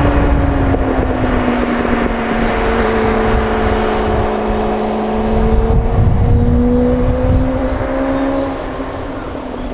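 Honda CB400 Super Four's inline-four engine running through an R's Gear Wyvern Classic titanium slip-on muffler. The engine note falls in pitch over the first couple of seconds, then holds and climbs slowly before fading near the end, over a low rumble.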